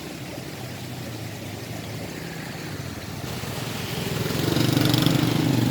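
A motor vehicle's engine running with a fast, even pulse, getting steadily louder from a little past halfway as it comes closer.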